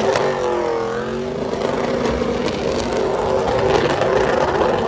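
Truck engine running hard at high revs, its pitch dipping over the first second and then holding steady, with a loud rushing noise throughout.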